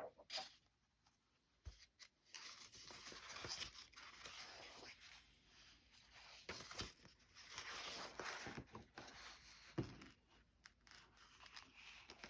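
Soft rustling and shuffling of paper, with a few light taps, as old paper doll books and sheets are handled and leafed through.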